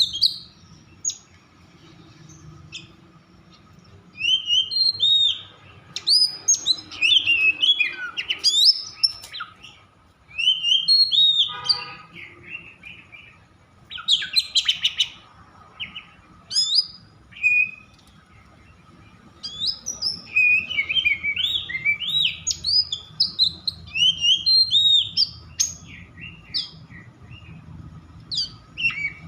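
Oriental magpie-robin (kacer) in an agitated, 'over emosi' state, singing bursts of sharp, rapid whistled phrases with short pauses between them, and a brief harsh rattle near the middle. This hard, aroused song is the kind used to provoke other kacer into singing.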